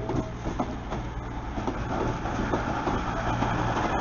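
Virgin Trains express passenger train approaching along the main line, its rumble and hum growing louder, with scattered sharp clicks.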